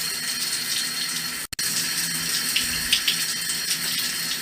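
Shower running steadily, a hiss of spraying water, cutting out for an instant about a second and a half in.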